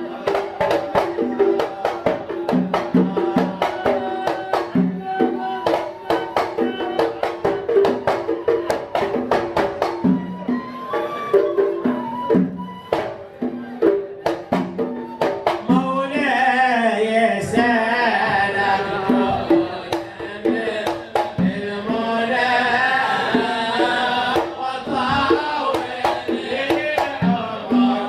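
Sufi sama' devotional singing with hand drums: a steady beat of hand-drum strokes under singing voices. About halfway through, a group of voices comes in fuller and louder over the drumming.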